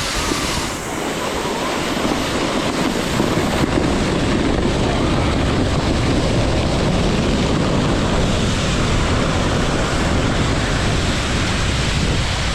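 Steady, loud rushing noise of wind buffeting the microphone, growing a little louder about two seconds in.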